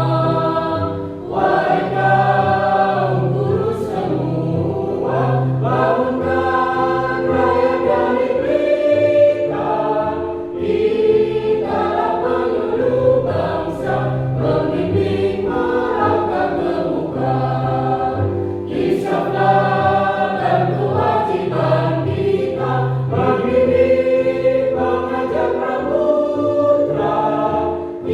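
A choir singing over an instrumental accompaniment with a regular, repeating bass line.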